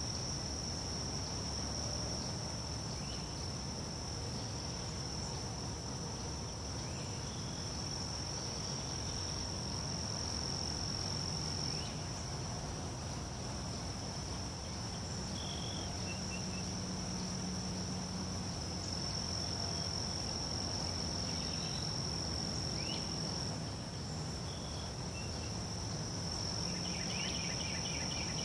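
Insects trilling in one steady high-pitched chorus, with faint short chirps now and then, a quick run of chirps near the end, and a low background rumble underneath.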